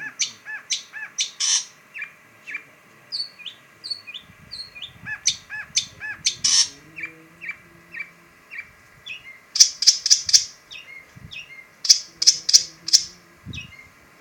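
A long-tailed shrike singing: a continuous string of short, quick, falling chirps, broken by loud raspy notes that come singly and then in two fast runs of four or five.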